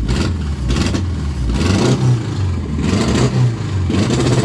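Car engine just fired up on newly fitted large fuel injectors, idling and being revved in short blips about once a second. It is running rich.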